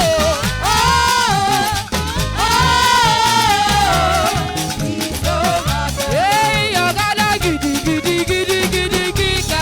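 Upbeat live church praise music: drums, bass and hand percussion keep a steady, busy rhythm under a lead melody of long, bending held notes.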